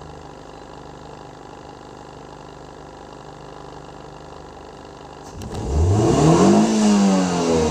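Toyota Vios 2NZ-FE four-cylinder engine idling steadily, then revved once about five seconds in, its pitch rising and falling back. The mechanic says this engine still misfires because of its number 1 ignition coil.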